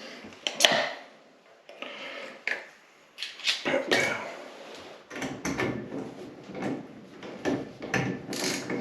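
Clicks, taps and small knocks of hand work at a loose fixture handle with an Allen key, to tighten its set screw. The handling is sparse at first and becomes a quick run of clicks about halfway through.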